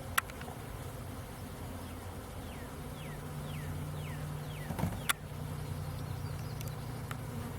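A swarm of honeybees flying and buzzing in a steady low hum. A few short falling chirps come through around the middle, and there are two sharp clicks, one right at the start and one about five seconds in.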